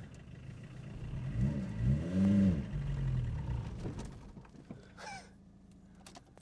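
Old Audi 200's engine revving up and down twice as the car is pulled away, then dropping back and running weakly as it stalls.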